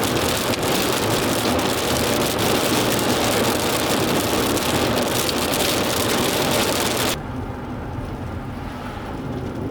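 Heavy rain hitting a car's roof and windshield, a dense hiss with scattered sharp drop ticks, under the low rumble of the vehicle on the road. The rain noise cuts off abruptly about seven seconds in, leaving only the quieter road rumble.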